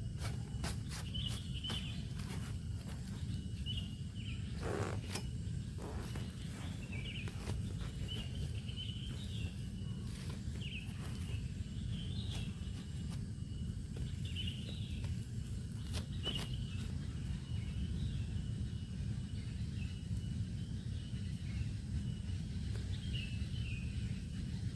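Forest ambience: a steady low rumble with short chirping calls every couple of seconds, from a bird or insect, and scattered light clicks, most of them in the first third.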